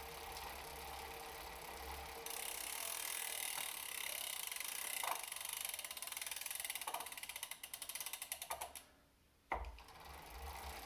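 Freehub of an Elite Suito-T direct-drive trainer ratcheting as it freewheels. A rapid run of pawl clicks slows and stops, and a single sharp knock follows. This is the freewheeling knock that the owner thinks could be the freehub.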